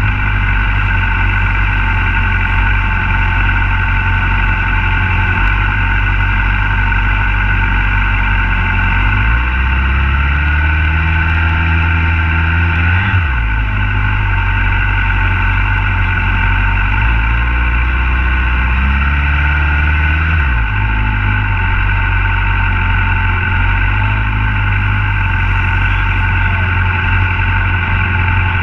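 Motorcycle engine under way on a track lap, heard from a camera mounted on the bike. The revs climb steadily twice, starting about nine and seventeen seconds in, each time falling away sharply after a few seconds, and begin climbing again near the end.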